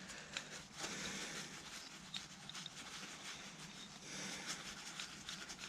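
Faint handling noises of small metal parts and tools on a workbench: scattered light clicks and clinks, with rustling about a second in and again near the end, over a steady low hum.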